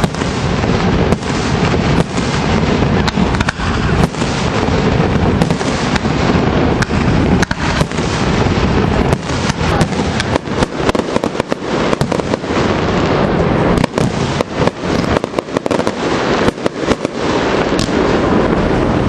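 Fireworks display going off: a dense, unbroken run of bangs and crackling pops, many a second, with sharper single pops standing out in the second half.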